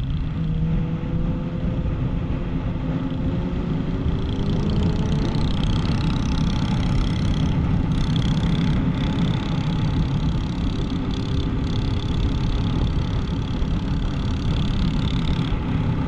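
Motorbike engine running at speed, its pitch climbing slowly over the first few seconds and then holding steady, under a heavy continuous low rumble.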